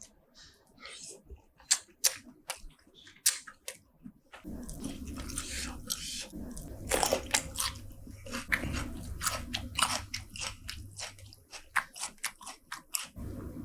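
Close-miked mouth sounds of someone eating spicy seafood: scattered wet clicks and bites at first, then denser chewing with crunches from about four seconds in.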